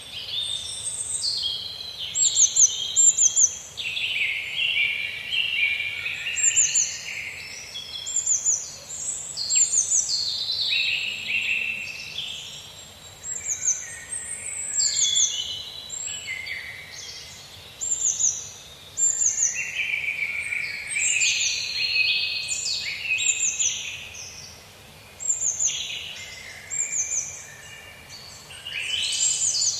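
Several birds singing at once in a continuous chorus of chirps and song phrases: repeated thin, high notes that slide quickly downward, over busier, lower warbling phrases.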